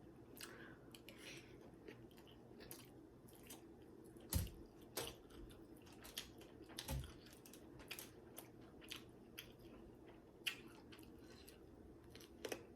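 Close-up chewing and biting of food, with irregular crisp crunches and mouth clicks; the loudest crunches come about four and a half and seven seconds in.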